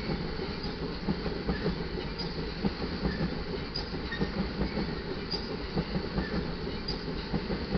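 Loaded iron ore hopper cars rolling past on steel wheels: a steady rumble with frequent clicks and knocks as the wheels cross the rail joints.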